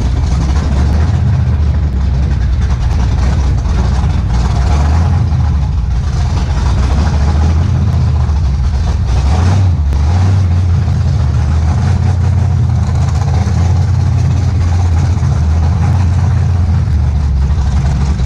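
Steady low rumble of a car's engine and road noise, heard from inside the vehicle.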